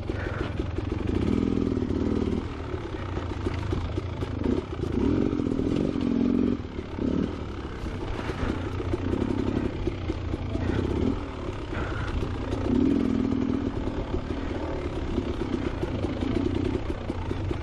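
Beta Xtrainer 300 two-stroke dirt bike engine revving in repeated short bursts, on and off the throttle, with clatter from the rocky ground.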